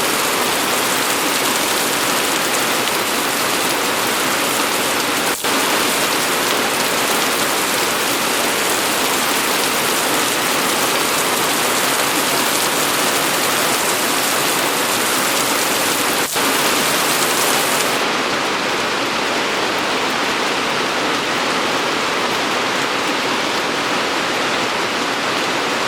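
Steady, heavy rain falling: a dense, even hiss of rain on surfaces, broken by two momentary dips about five and sixteen seconds in.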